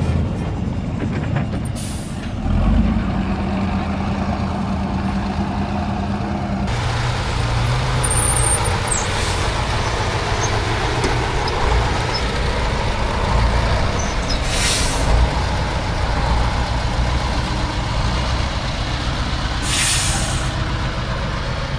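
Heavy trial trucks' diesel engines running steadily, broken three times by short air-brake hisses.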